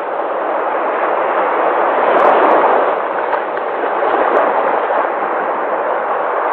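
Sea waves surging and breaking in a continuous wash of surf, swelling about two seconds in.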